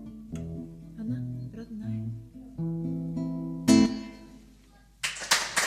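Acoustic guitar picking the closing phrase of a song, ending on a loud strummed chord that rings out and fades. About a second after the chord, hand clapping breaks out.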